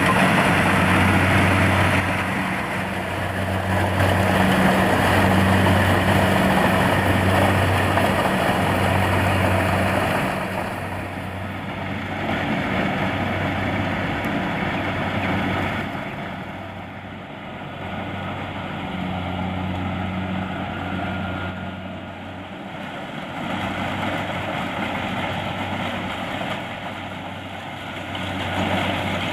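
Kubota DC-70 Plus combine harvester's diesel engine running steadily under load while harvesting rice. It is loud for about the first ten seconds, then quieter, swelling and fading.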